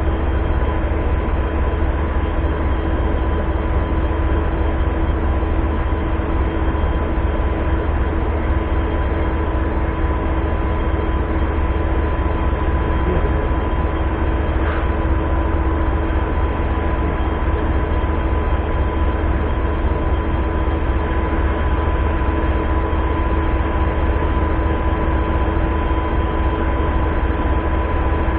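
Steady low rumble of a train with a constant hum, unchanging throughout.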